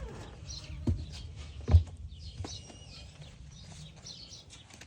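Birds chirping, with a few scattered knocks, the loudest a dull thump just under two seconds in.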